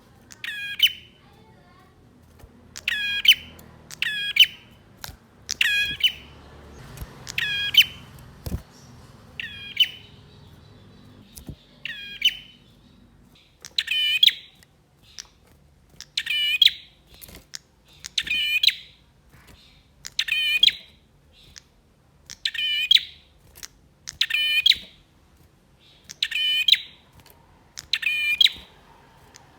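Male prinia (prenjak) singing: about fifteen short, sharp, trilled phrases, repeated every two seconds or so.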